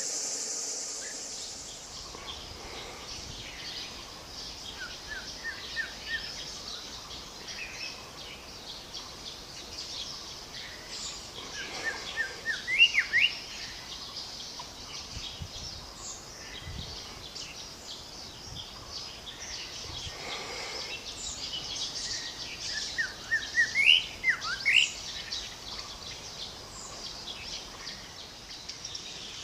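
Songbirds singing: a dense chorus of short high chirps, with one louder phrase of quick rising notes that comes three times. A steady insect trill fades out in the first two seconds.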